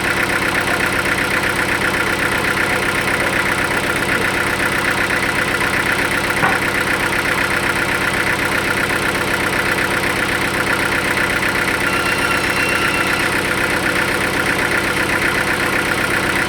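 Sawmill machinery running steadily: an even, engine-like drone made of many steady tones, with a fast even pulsing over it. A single short knock comes about six and a half seconds in.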